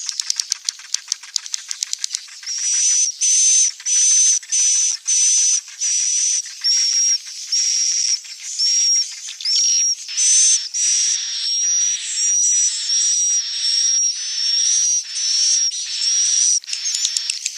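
Swiftlet calls, the kind played as a lure to draw swiftlets to nest: a rapid run of clicks for the first two seconds or so, then a long series of short, buzzy, high chirps, about two a second.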